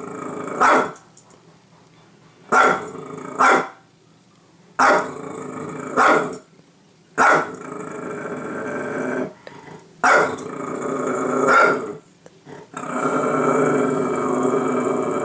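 A dog growling and barking in repeated bouts, about every two seconds. Each bout starts with a sharp bark, runs into a drawn-out growl and often ends in another bark.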